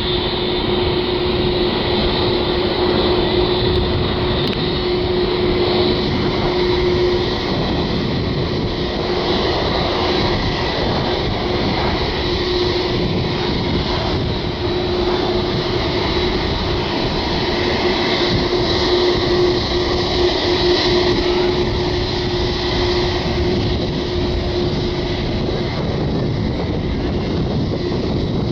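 Jet engines of a Boeing 747-8F, its GEnx turbofans, running as a steady noise with a held whine through it.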